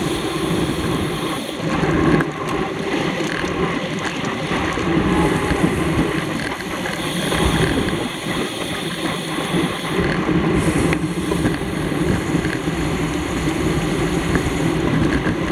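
Steady rushing wind noise on a camera microphone carried on a bicycle ridden at race speed.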